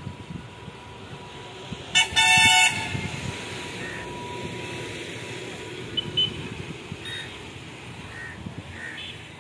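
A horn sounds about two seconds in: a very short toot followed by a longer blast of well under a second. Under it runs a low steady rumble.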